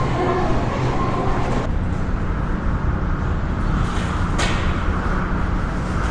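Car cabin noise while driving: a steady low engine and tyre hum, with a brief whoosh about four and a half seconds in.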